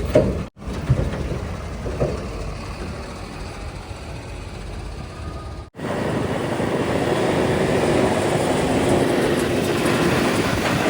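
Heavy diesel machinery running: a steady engine drone, cut off abruptly twice, about half a second in and again near six seconds in, and louder after the second cut.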